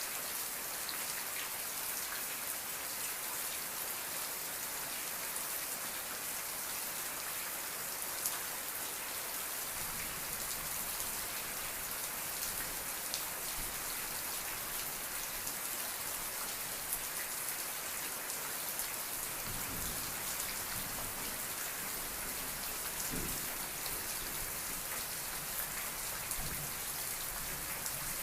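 Steady rain falling, a dense even hiss of drops with many small sharp drop hits. Faint low rumbles come and go from about a third of the way in.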